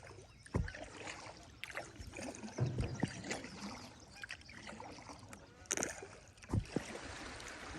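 Fast-flowing river water rushing and gurgling around a kayak, with scattered splashes and clicks and a few low thumps.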